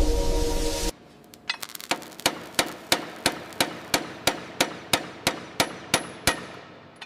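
A hammer striking metal in a steady rhythm, about three blows a second, each with a short metallic ring.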